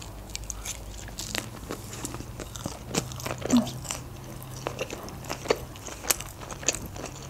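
Close-miked chewing of a mouthful of sushi roll: a run of small, irregular wet clicks and soft crunches as the rice and filling are chewed, over a faint low hum.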